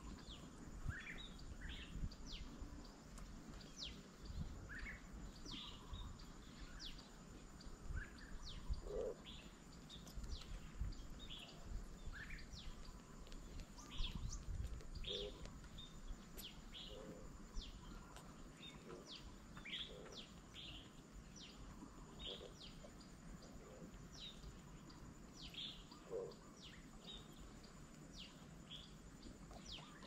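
Small birds calling in a steady stream of short high chirps, with occasional lower single notes.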